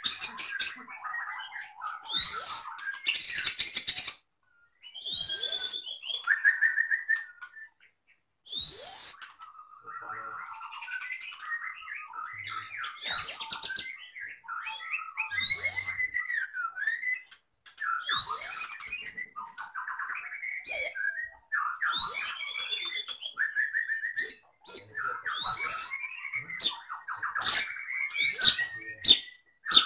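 A Medan white-rumped shama (murai batu) singing loudly in phrases every one to two seconds, with sharp rising whistled sweeps and rapid chattering runs, its song laced with mimicked calls of other cage birds such as lovebird and canary.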